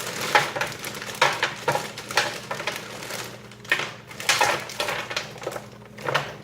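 Frozen french fries being laid out by hand on a pan, a run of irregular clatters and light knocks, over a faint steady hum.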